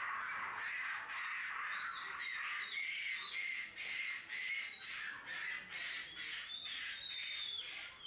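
Birds calling over and over in short, high, down-curving chirps, about three a second, over a steady hiss.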